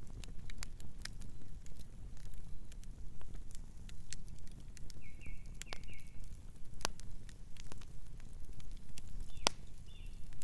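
Wood fire crackling with irregular sharp pops and snaps over a low steady rumble of flames. A distant bird calls a few short chirps about five seconds in and again near the end.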